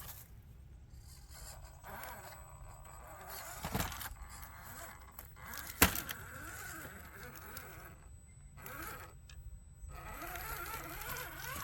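Small electric RC crawler's motor and gears whining, the pitch rising and falling with the throttle, over scraping and crunching of its tyres on the ground. A single sharp knock comes about six seconds in, and the motor stops briefly twice near the end.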